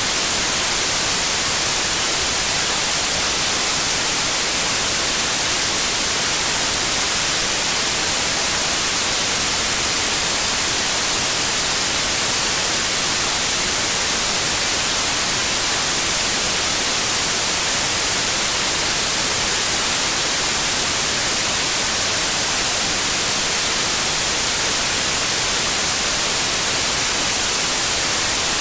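Steady white noise: an even, unchanging hiss, brightest in the highs, with no sudden sounds or changes in volume.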